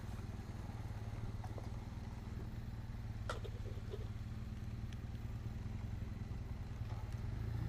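Vintage motorcycle engine idling steadily, with a sharp click a little over three seconds in.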